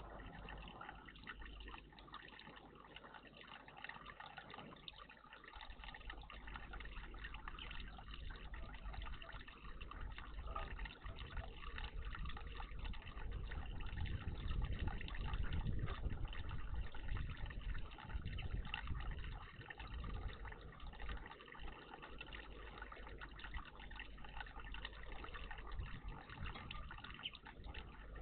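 Water trickling and gurgling steadily in a bird bath, growing louder for several seconds around the middle.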